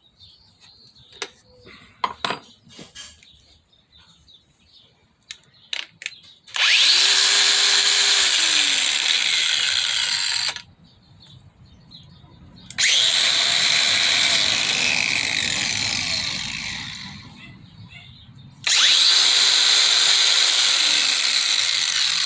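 Handheld angle grinders fitted with 120-grit sanding pads, run three times for a few seconds each. The first run stops sharply, the second fades away slowly, and the third is still going at the end. Light clicks of handling come before the first run.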